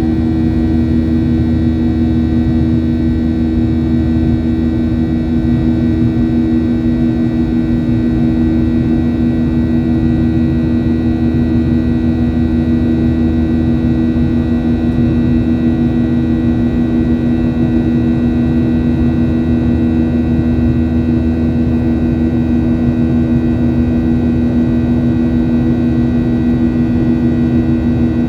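Boeing 737-800's CFM56-7B turbofan engines heard from inside the passenger cabin: a loud, steady drone with several held tones over a low rumble, unchanging throughout.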